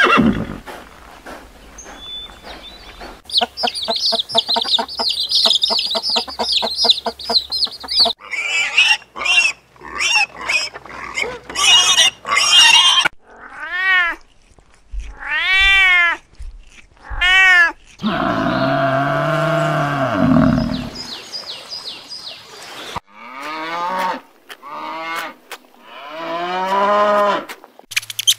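A run of animal sounds. A domestic cat meows several times in arching, rise-and-fall calls in the middle and again near the end. A deeper, drawn-out call comes between them, and noisier animal sounds come before.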